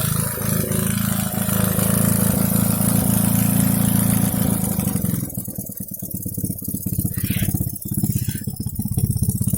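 Small homemade four-stroke engine, built from a refrigerator compressor, running fast with a steady hum. From about five seconds in it changes to a rougher, uneven run of separate rapid firing pulses.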